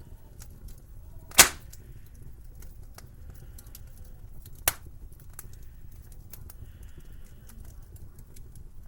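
Wood fire crackling with a low steady rumble and many small irregular ticks, broken by two sharp pops a few seconds apart; the first pop is the louder.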